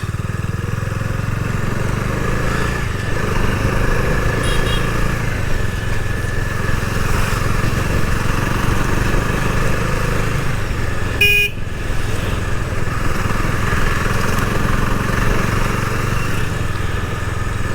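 Bajaj Dominar 250 single-cylinder motorcycle engine running steadily while riding along a road. A short vehicle horn blast sounds about eleven seconds in.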